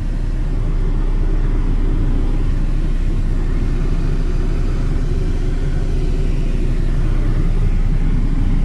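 Nissan KA24DE 2.4-litre four-cylinder engine of a 2000 Frontier XE idling steadily just after starting, heard from inside the cab with the air conditioning running.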